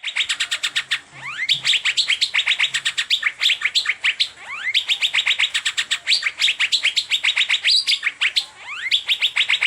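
Asian fairy-bluebird (cucak biru) singing in 'teler' style: a fast, continuous run of sharp repeated chirps, about ten a second, with a few rising sweeps and brief lulls about a second in, midway and near the end.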